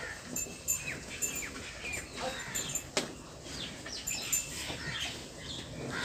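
Small birds chirping: many short calls that drop quickly in pitch, one after another, with a single sharp click about three seconds in.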